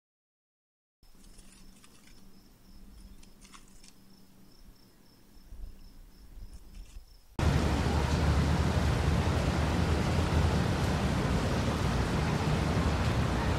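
Outdoor nature ambience: a faint steady high-pitched insect-like chirring over low background hum. About seven seconds in it switches abruptly to a loud, steady rushing noise.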